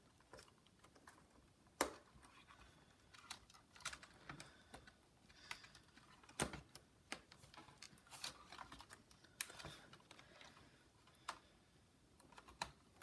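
Faint, irregular clicks and taps of a laptop's plastic keyboard and case parts being handled and pressed into place.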